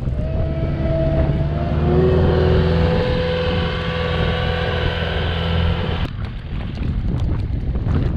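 Engine of a snow-plowing machine running steadily with a faint whine above it; it cuts off suddenly about six seconds in, giving way to wind buffeting the microphone.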